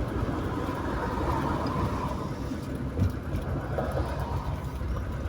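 Steady road and engine noise of a moving car, with one thump about three seconds in.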